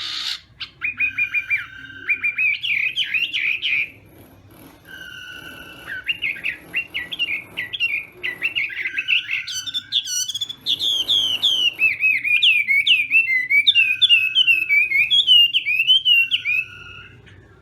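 Chinese hwamei singing a long, varied song of rapid whistled phrases that swoop up and down, with a short lull about four seconds in.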